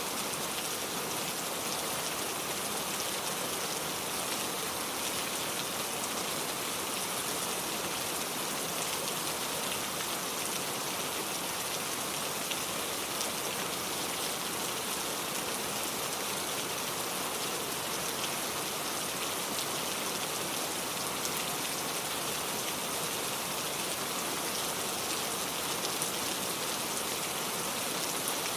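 Steady rainfall: an even hiss of drops pattering on surfaces, with scattered individual drop ticks.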